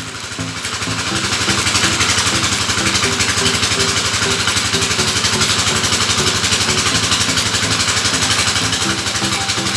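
A small engine running steadily, with a strong steady hiss over it.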